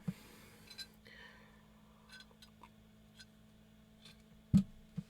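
Scattered light clicks and taps over a steady low hum, with one sharper knock about four and a half seconds in.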